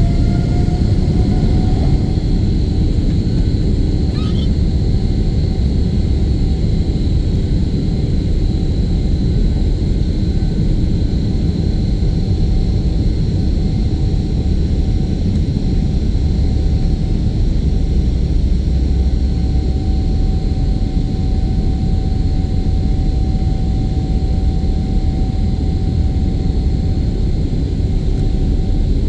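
Airliner's jet engines at takeoff power heard from inside the cabin: a loud steady rumble, with an engine whine that rises in pitch near the start and then holds steady.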